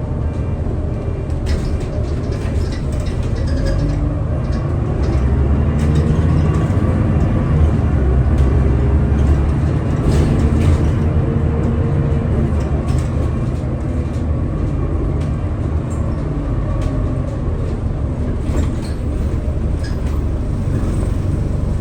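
Scania L94UB city bus driving, its engine pulling hard as the bus gathers speed, with a whine that rises in pitch several times and scattered clicks and rattles.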